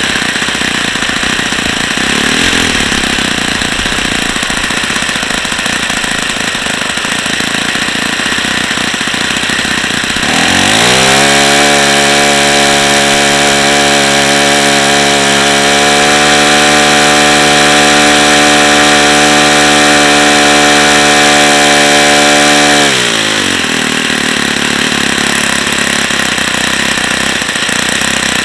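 Saito FA-45 ringless ABC four-stroke glow model engine running at low speed, then opened up about ten seconds in to a steady high-speed run. It holds there for about twelve seconds, then drops back to low speed.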